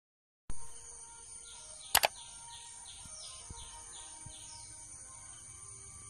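Rural outdoor ambience that starts after half a second of silence: a bird calls in a quick run of short falling chirps, about three a second, over a steady high hum. Two sharp clicks come close together about two seconds in.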